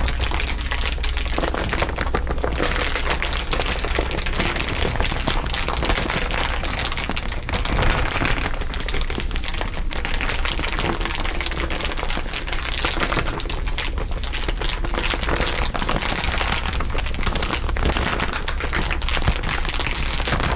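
Dense, continuous crinkling and crackling, with several crinkle recordings layered over one another, over a steady low hum.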